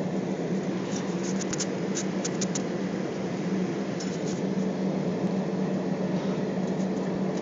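Steady droning hum in an Airbus airliner's cabin after landing, the engines and air-conditioning running with a constant low tone. A quick cluster of light clicks comes about a second in and a shorter one about four seconds in.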